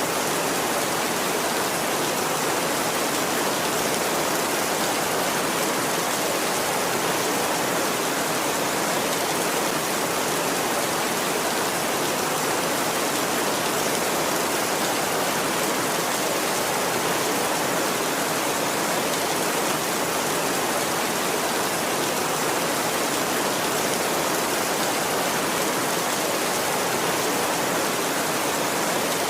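Heavy rain falling steadily on a tin roof: a dense, even hiss that keeps the same level throughout, with no thunder.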